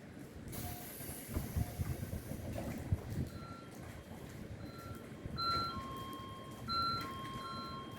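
Repeating electronic warning beeps at two alternating pitches, heard by a railway over a low rumble, with a short hiss about half a second in.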